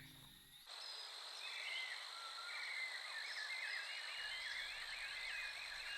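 Wild nature ambience: a steady high insect drone with a busy chorus of short chirping, trilling animal calls, after a music tail fades out under a second in.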